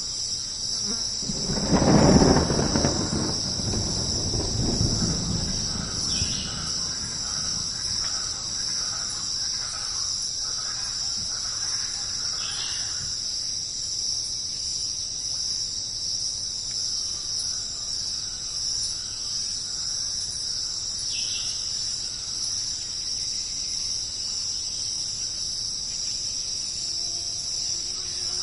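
Thunder cracks about two seconds in and rolls off over the next few seconds, over a steady high-pitched chorus of jungle insects chirring and a light hiss of rain.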